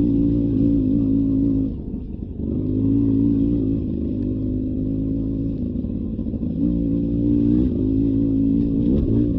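Beta 300 RR two-stroke dirt bike engine running under changing throttle on a trail, dropping off briefly about two seconds in and picking up again later.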